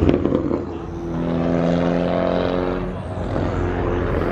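A car engine running loudly, with an even engine tone that sags slowly in pitch for a couple of seconds before fading.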